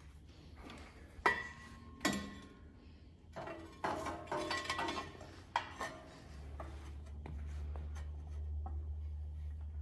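Metal motor plate clanking and scraping as it is test-fitted, with two sharp ringing clanks early and a run of clattering after. About six seconds in, a steady low hum starts up.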